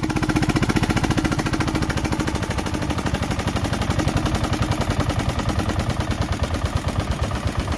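Yanmar SK single-cylinder marine diesel engine running, with a rapid, even beat of firing pulses.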